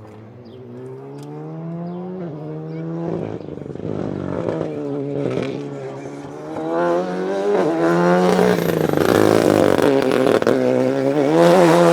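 Rally car engine approaching, revving up through the gears with pitch climbing and dropping at each shift, lifting off and accelerating again, growing steadily louder until it is close.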